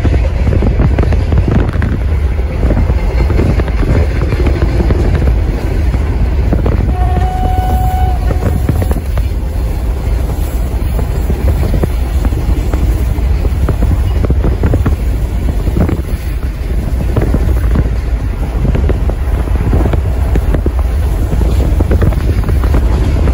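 Freight train passing close by: a heavy, steady rumble with many rapid wheel knocks on the rails. A brief high steady tone sounds about seven seconds in.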